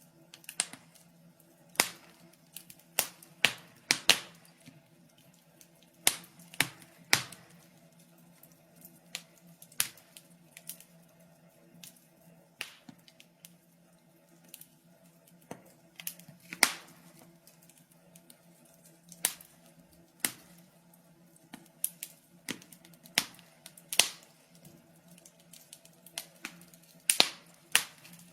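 Wood fire crackling: irregular sharp pops and snaps from burning logs, some in quick clusters, over a faint steady low hum.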